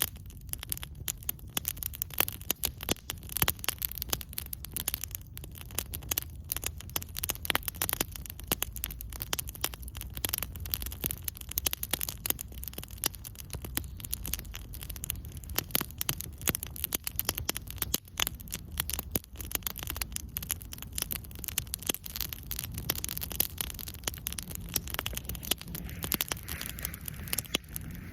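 Wood campfire crackling: a dense, continuous run of small sharp pops from the burning wood over a steady low rumble.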